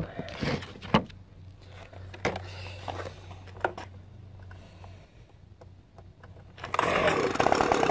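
A few light clicks and knocks, then about seven seconds in the Echo leaf blower's two-stroke engine starts and keeps running. This is its first start on a freshly fitted replacement carburetor.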